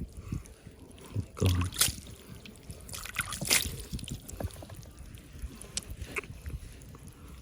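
Water sloshing and splashing, with a couple of louder splashes, one about one and a half seconds in and one about three and a half seconds in.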